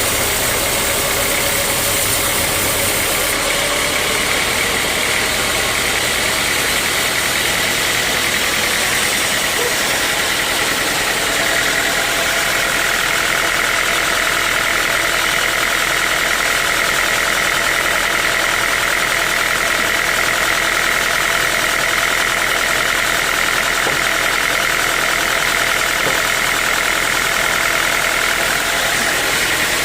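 Sawmill saw running steadily through a mahogany log, its motor a continuous drone under a high whine that grows stronger about twelve seconds in.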